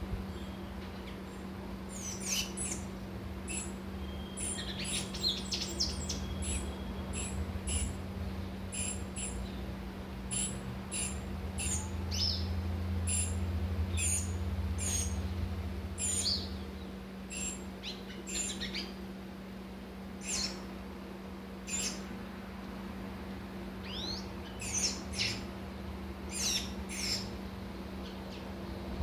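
Small birds calling, a quick run of many short, high chirps and twitters with brief pauses. A steady low hum runs underneath, with a low rumble for a few seconds around the middle.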